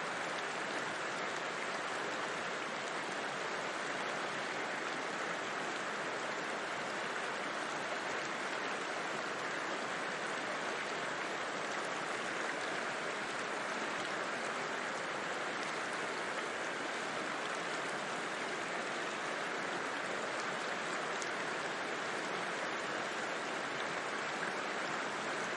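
River water flowing: a steady, unbroken rushing that does not change.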